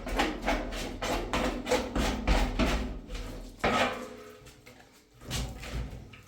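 A fast run of sharp knocks or blows, about three to four a second, then two single, heavier knocks in the second half.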